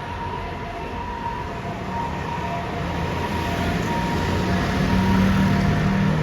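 Ambulance two-tone hi-lo siren, switching back and forth between a higher and a lower pitch, over a deep vehicle engine rumble that grows louder in the second half.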